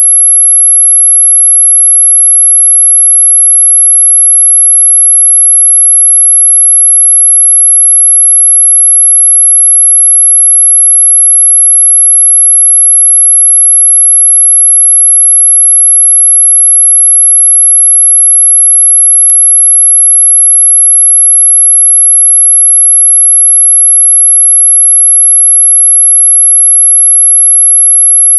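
A single very high-pitched pure sine tone, loud and perfectly steady, sounding continuously as a mosquito-repellent 'ultrasonic' sound. A faint click comes about two-thirds of the way through.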